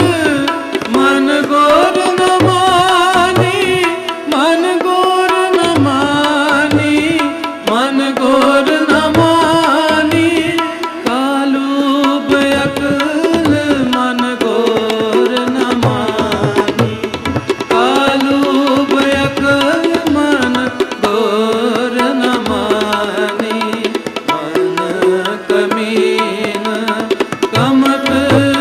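Sikh kirtan in Raag Malaar: tabla keeping a steady rhythm under a continuous, richly ornamented melody line that wavers and glides without words.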